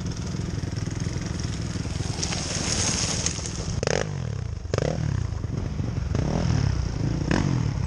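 Enduro motorcycle engine running at a steady idle, then revving up and down repeatedly from about halfway through, with a few sharp knocks.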